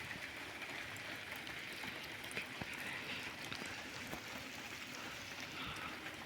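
Steady rain falling, a soft even hiss with scattered faint drop ticks.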